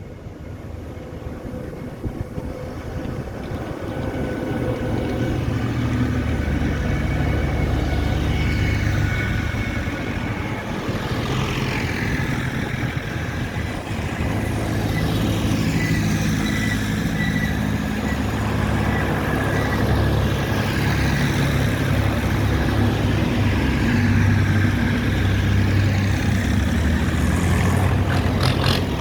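Tractor engines running as vehicles in a road convoy go past, the low engine drone building over the first few seconds and then staying steady, with pitches rising and falling as they pass.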